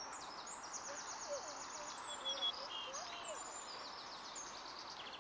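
Several small birds chirping and trilling over a steady hiss of outdoor background noise, with rapid high trills and short whistles coming and going.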